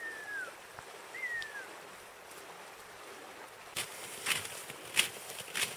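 A bird calls twice, each a single thin whistled note falling in pitch. From about four seconds in, boots crunch through snow in steady footsteps, about two a second, louder than the calls.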